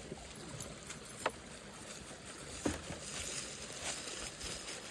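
Shallow creek water running and trickling, with a couple of faint clicks.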